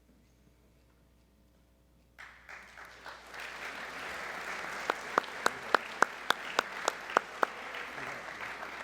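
Audience applause in a large hall, starting suddenly about two seconds in. Partway through, about ten sharp, loud claps close by stand out, roughly four a second.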